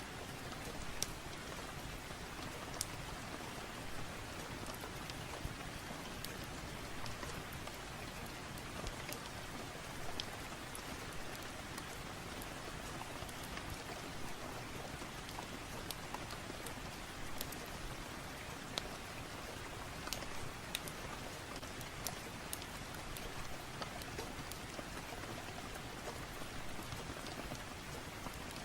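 Steady rain with an even hiss, dotted with scattered sharp ticks and pops about once a second.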